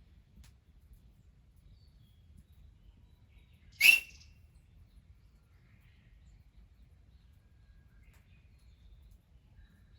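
Faint, scattered bird chirps over a low background rumble, with one loud, sharp, short sound about four seconds in.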